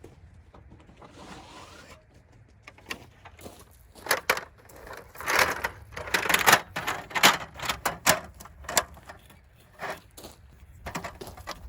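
A run of sharp clicks and knocks mixed with short bursts of rustling, starting about four seconds in and busiest a little past the middle, like gear being handled.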